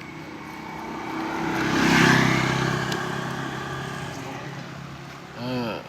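A motor vehicle drives past, its engine swelling to loudest about two seconds in and then slowly fading away.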